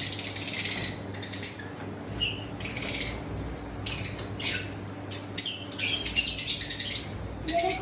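Small pet birds squawking and chirping in short, harsh calls that come in quick, irregular bursts.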